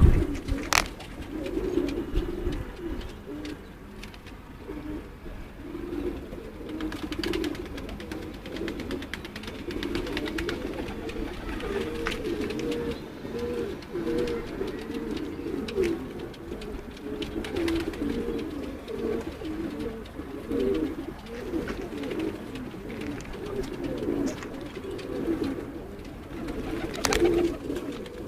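Domestic pigeons cooing, many low coos overlapping without pause, with a sharp knock about a second in and another near the end.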